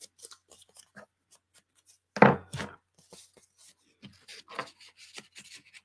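Ink pad dabbed and rubbed along the edges of paper: a string of light taps, with two louder knocks about two seconds in.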